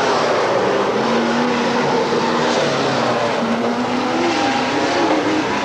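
Several race car engines running together on a dirt track, their pitches rising and falling as the cars circle.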